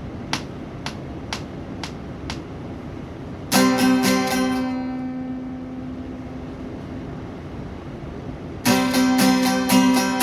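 Evenly spaced sharp clicks, about two a second, for the first couple of seconds. Then a guitar chord is strummed once and left ringing out, and near the end steady strumming begins, starting a song.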